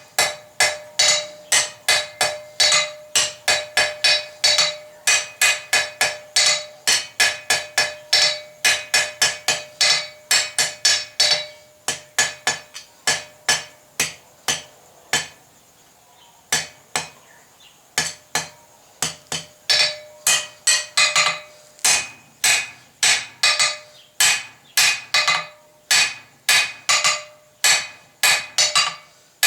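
Hand hammer striking hot mild steel bar stock on an anvil, about three blows a second with a steady metallic ring, drawing out a tapered point. The blows thin out for a few seconds about halfway through, then resume.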